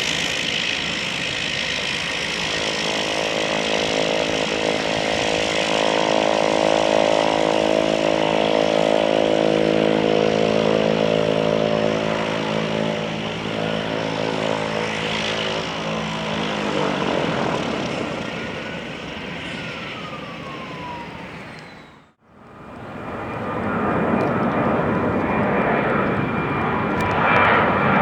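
Airliner engines passing close by: a steady buzzing drone made of many tones, then a whine that falls in pitch as the aircraft goes past. The sound breaks off sharply about three-quarters of the way in, and another aircraft's engine roar builds up.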